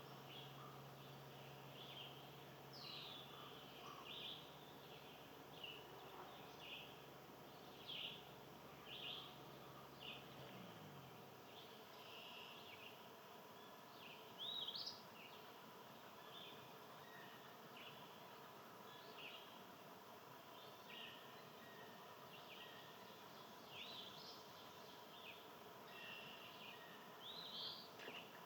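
Songbirds chirping faintly, short calls scattered about once a second. A low steady hum runs underneath for the first ten seconds or so, then stops.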